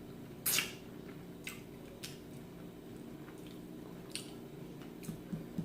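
A person chewing food close to the microphone: a handful of short, sharp mouth clicks and smacks, the first and loudest about half a second in, over a faint steady hum.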